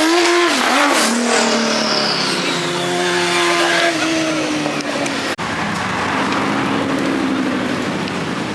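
Sports car engine revving hard as it accelerates, its pitch climbing and dipping with the throttle and gear changes, then settling lower as it runs on.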